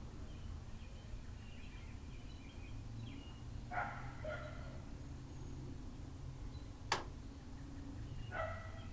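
A Chihuahua barking: a short yappy call about four seconds in and another near the end. A single sharp click about seven seconds in, over a steady low hum.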